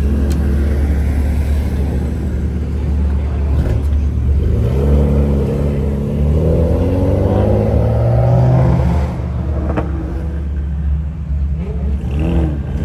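Car engine revving: its pitch climbs steadily for about four seconds, then drops away, with a short rev near the end, over a steady low rumble.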